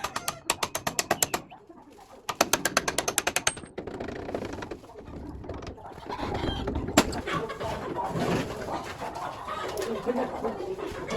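Two short runs of rapid clicking, about ten clicks a second, then birds with a dove or pigeon cooing, and one sharp knock about seven seconds in.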